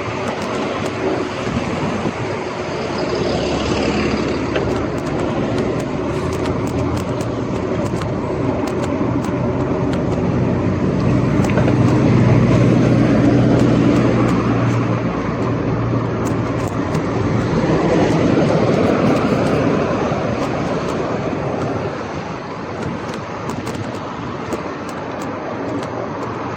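Gravel bike riding on a city street: steady tyre and wind noise with frequent small rattling clicks, and traffic around it. A low vehicle engine hum swells through the middle and fades near the end.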